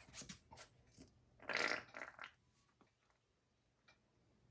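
A squeeze bottle of honey mustard sputtering as it is squeezed: a short spluttering squirt a bit over a second in, with a few smaller squirts around it.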